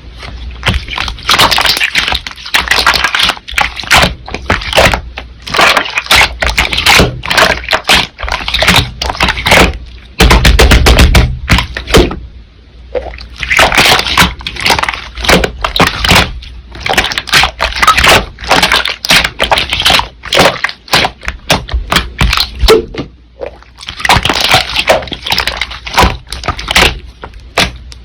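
Slime being squished and pressed by hand: dense runs of wet clicks and crackles, in stretches of a few seconds with short pauses between.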